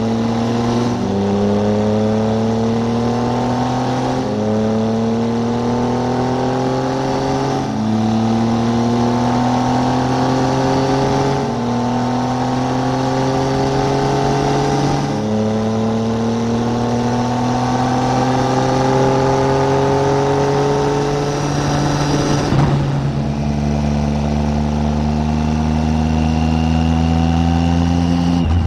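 Triumph Tiger 800's three-cylinder engine pulling hard, its pitch climbing and then stepping down at each gear change about every three and a half seconds. A little after twenty seconds in it drops to a lower, steady note.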